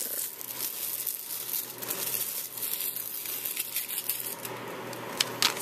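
Paper crinkling and rustling as cut cardstock pieces and sticker-maker backing are handled, with a few sharp clicks near the end.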